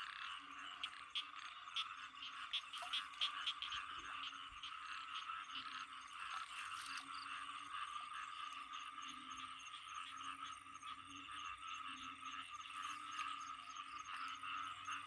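Night frog chorus after rain, with banded bullfrogs (อึ่งอ่าง) giving low calls that swell and fade in slow pulses beneath a steady higher chorus of frogs and insects. There are a few short clicks in the first several seconds.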